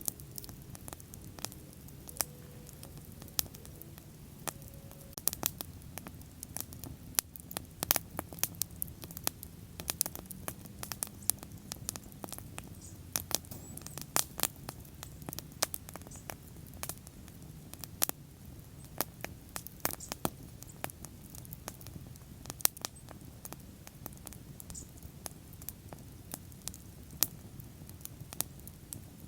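Wood bonfire crackling: irregular sharp pops and snaps, several a second, over a steady low rush of burning.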